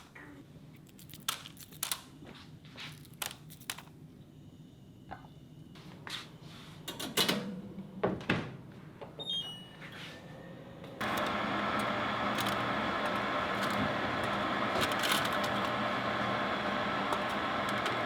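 Kitchen clatter of dishes and utensils, then a few electronic beeps from a kitchen appliance's controls, after which the appliance starts running with a steady hum about eleven seconds in.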